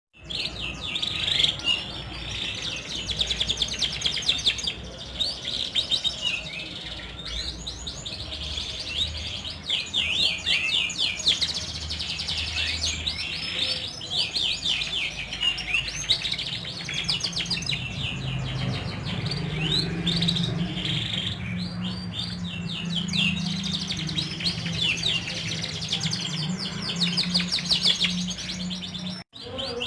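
Domestic canary song: long unbroken runs of rapid, high trills and rolls, one phrase flowing into the next. The song cuts out for an instant just before the end.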